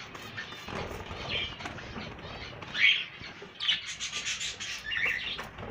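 Small aviary cage birds chirping, several short calls, the loudest about three seconds in. Underneath runs a steady rustling, scraping noise.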